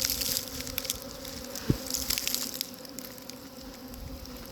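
Honeybee swarm buzzing in a steady hum, many bees flying and clustering at once, with scattered faint ticks and one soft thump about a second and a half in.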